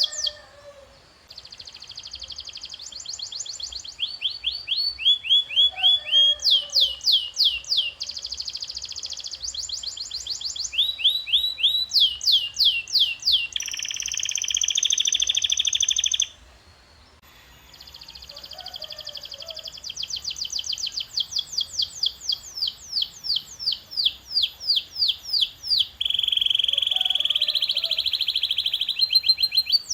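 Domestic canary singing a long rolling song: phrases of rapid repeated notes at changing speeds and pitches, some sweeping downward, and two sustained buzzy rolls, with a short break about halfway through.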